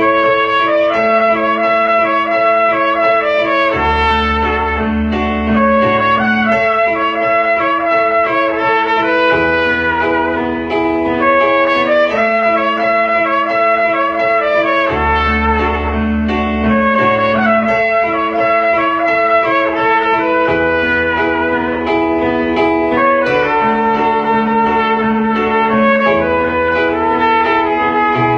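Trumpet playing a slow, lyrical melody in long held notes over an instrumental backing with bass and keyboard or guitar chords.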